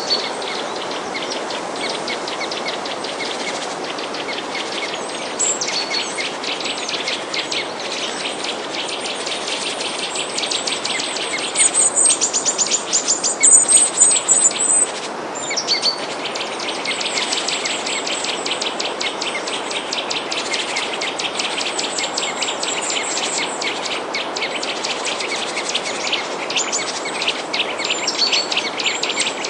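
Small songbirds chirping and trilling in quick runs over a steady background hiss, with the chirping loudest about halfway through.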